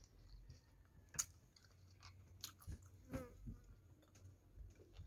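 Faint chewing of a piece of meat close to the microphone: soft mouth clicks and smacks, with a few sharper clicks about one and three seconds in.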